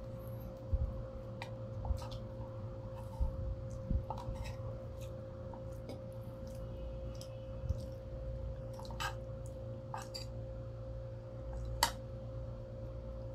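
Eating sounds of two people chewing pizza and noodles: scattered short wet clicks and lip smacks, the sharpest near the end, over a steady background hum.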